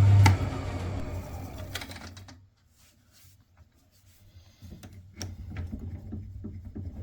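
Wood lathe switched off and spinning down with a falling whine that fades out over about two seconds. After a pause come a series of light clicks and knocks as the oak workpiece and lathe fittings are handled.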